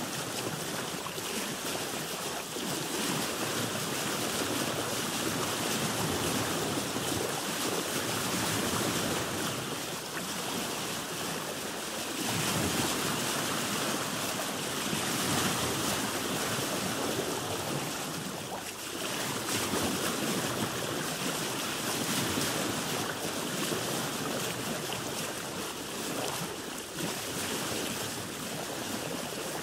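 Sea waves washing around a boat: a continuous rush of water that swells and eases slowly every few seconds.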